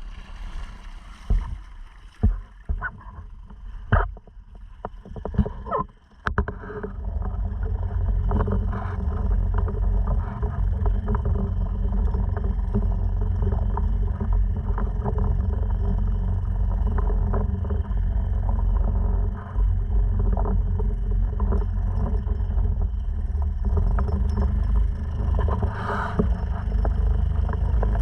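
A few sharp knocks and clatters, then from about six seconds in a Honda 2.3 four-stroke outboard motor running steadily.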